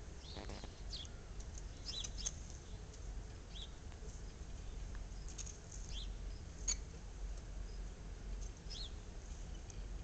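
Small birds chirping now and then: short, high chirps scattered through, over a low steady rumble.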